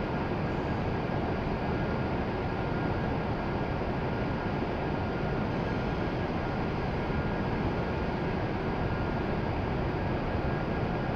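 Steady rushing hum of a Shinkansen platform with an E7-series train standing at it, with no distinct events.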